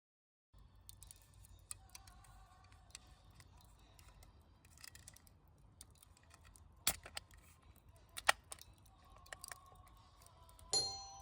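Quiet background noise with a few scattered sharp clicks and taps, two of them louder about two-thirds of the way through.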